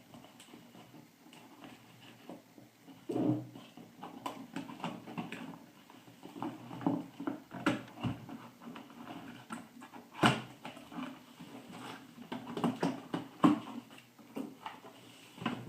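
Cardboard shipping box and its packing being handled and opened by hand: irregular rustling and scraping with scattered sharp knocks, the loudest about ten seconds in.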